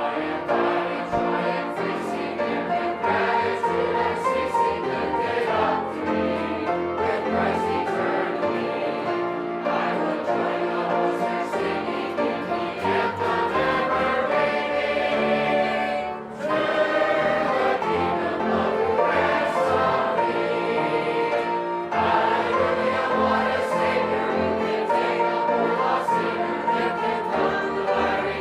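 Congregation singing a hymn together, with short breaks between lines.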